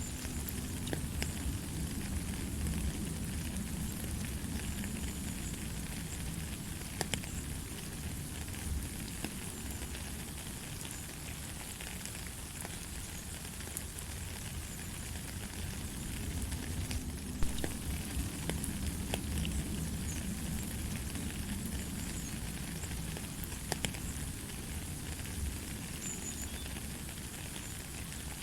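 Steady light rain: an even hiss of falling rain with scattered sharper drops hitting nearby, one louder drop about two-thirds of the way through, over a low rumble that swells and eases.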